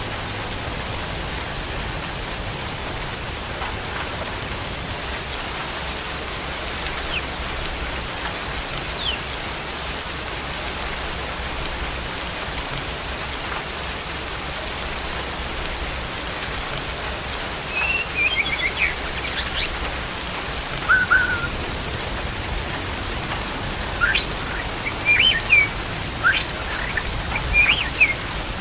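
Songbird calls: short sharp whistled chirps and brief trills, sparse at first and more frequent in the second half, over a steady rain-like hiss.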